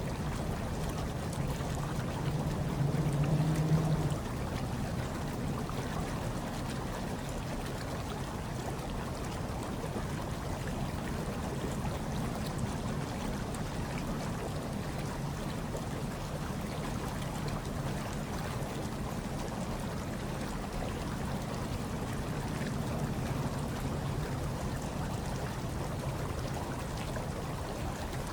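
Hot tub water bubbling and churning steadily over a low, steady hum, with a brief louder swell a few seconds in.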